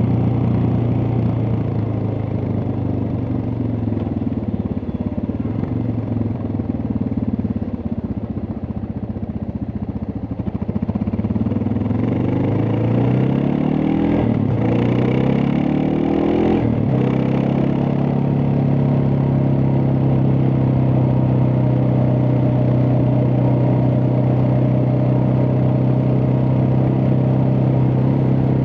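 Suzuki DR650's single-cylinder four-stroke engine under way: it runs steady, its revs fall over several seconds as the bike slows, then it accelerates again through two gears with a shift about halfway through, and settles to a steady cruise.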